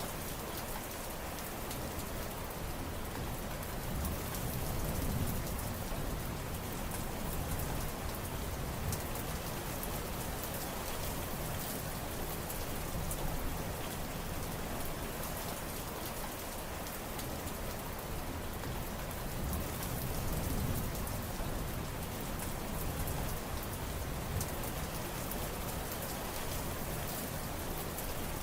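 Steady heavy rain falling, a dense patter of drops over an even hiss. A low rumble swells and fades twice, about five seconds in and again near twenty seconds.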